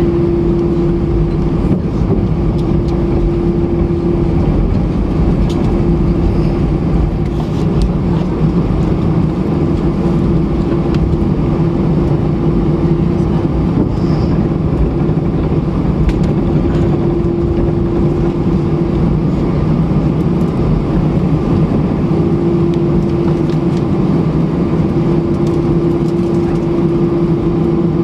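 Airbus A320 jet engines and airflow heard from inside the passenger cabin: a steady drone with a low rumble and a humming tone that fades out and comes back several times.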